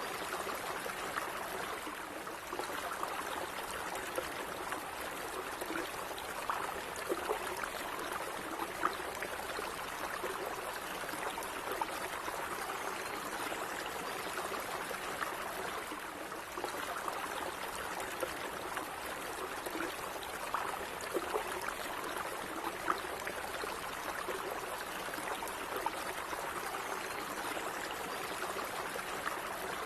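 Shallow stream running steadily, water trickling and gurgling over stones with small splashes.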